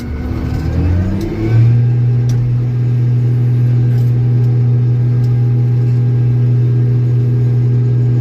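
Old Steiger four-wheel-drive tractor's diesel engine revving up over the first second and a half, then running steady at high revs.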